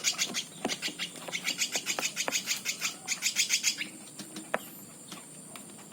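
Woodpecker chicks giving a fast, even chatter of begging calls, about seven a second, the calls of nestlings being hand-fed. The calls stop about four seconds in, leaving a few faint clicks.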